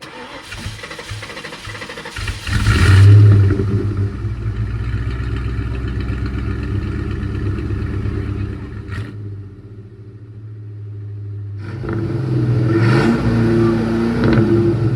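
A car engine comes in loudly about two and a half seconds in, peaking briefly and then running steadily at idle before dropping away around the middle; a sharp click follows, then an engine runs again with a short rev rising and falling in pitch near the end.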